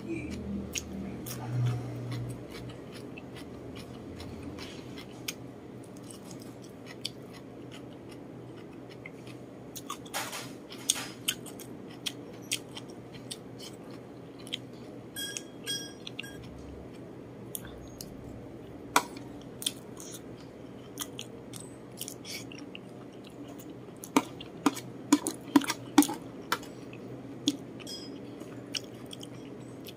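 Close-up chewing and wet mouth clicks of a person eating rice, braised chicken and a crisp cucumber slice. Scattered sharp clicks run throughout, with a brief ringing clink about halfway, typical of a spoon touching a ceramic plate, and a dense run of louder clicks a few seconds before the end.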